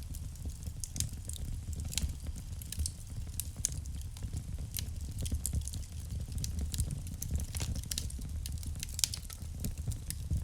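Wood fire burning in a fireplace: a low steady rumble of flame with irregular sharp crackles and pops from the burning logs.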